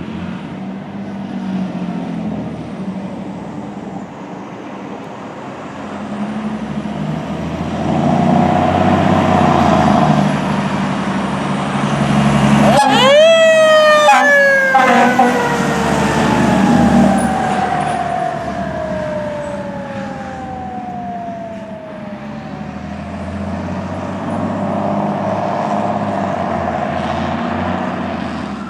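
A 2008 Spartan/Crimson fire engine running under way on an emergency response, its engine rumbling throughout. About halfway through its siren sounds, rising sharply, then slowly winding down in pitch over several seconds.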